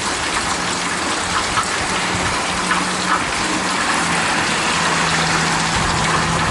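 Heavy rain falling with water gushing and running. A low steady hum comes in about half a second in and grows louder in the second half.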